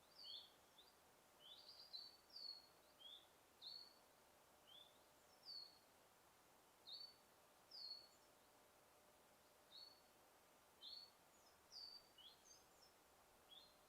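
A bird chirping: short, high chirps, one or two a second and sometimes in quick clusters, over a faint steady hiss.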